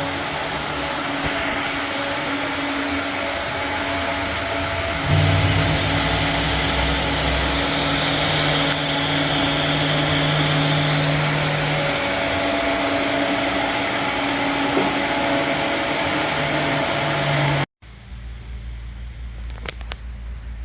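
Loud, steady machine whirring and hissing with a low hum that steps up about five seconds in. It cuts off abruptly near the end and gives way to a quieter low rumble.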